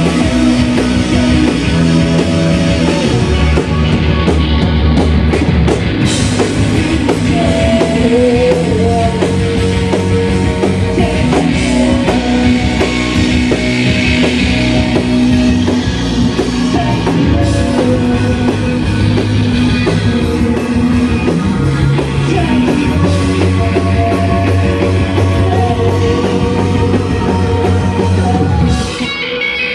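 Shoegaze rock band playing live: dense, distorted electric guitars over bass and drums. Near the end the bass and drums stop and the guitar rings on alone.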